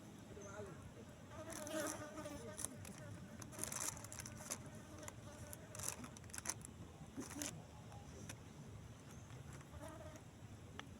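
A flying insect buzzing in a wavering drone that comes and goes, loudest about two seconds in and again near the end, with scattered sharp clicks and rustles.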